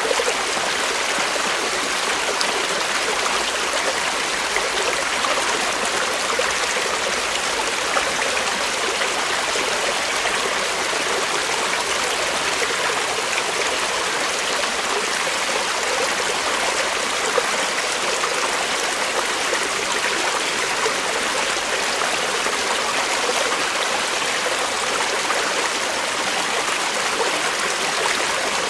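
Creek water flowing steadily over rocks, an even rushing and babbling with no change.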